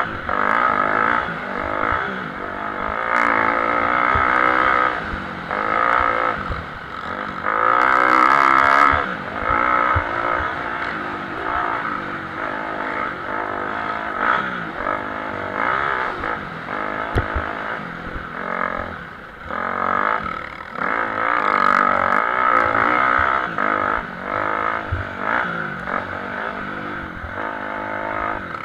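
Several motocross bikes' engines racing around the track, revs rising and falling as they accelerate and shift, the sound swelling and fading as bikes pass. The loudest moment is about eight seconds in, when a bike passes close.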